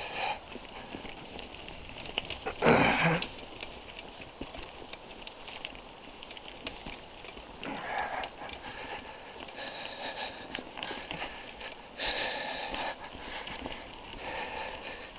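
Mountain-bike rider breathing hard on an uphill climb, with heavy breaths a few seconds apart and the loudest about three seconds in. Under the breaths the bike and its tyres make steady small clicks and rattles over the trail.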